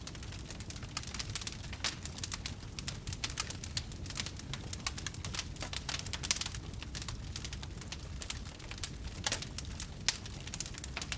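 Wood campfire crackling: a dense, irregular run of small snaps and pops over a low steady rumble of burning, with a few louder pops.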